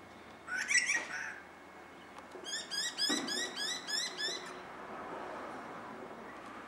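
Wild birds calling: a short call about half a second in, then a fast run of about ten rising notes, some five a second, lasting about two seconds.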